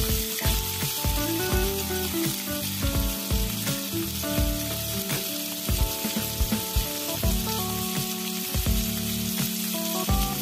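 Green beans, onion and garlic sizzling in oil in a wok, with a spatula knocking and scraping against the pan as they are stirred.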